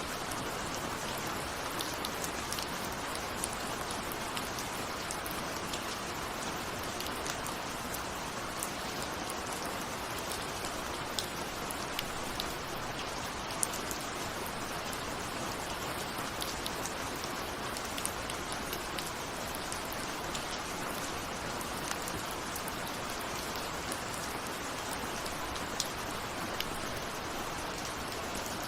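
Steady rain with many individual raindrops ticking against a window pane, an even hiss without thunder.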